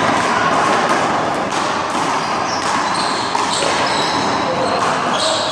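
Rubber handball hit by hand and bouncing off the wall and court in a one-wall handball rally: several sharp smacks over steady background noise.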